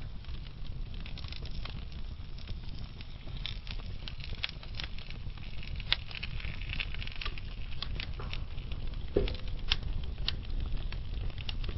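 Wood fire burning in a fireplace, with a steady low rumble of flames and irregular sharp crackles and pops from the burning logs, a few louder pops near the end.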